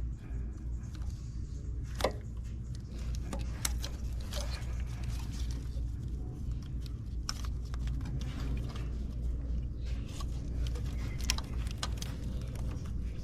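Scattered small clicks and light rattles as the plastic electrical connectors are unplugged from the ignition coils of a Toyota 3.5-litre V6, the sharpest click about two seconds in, over a low steady hum.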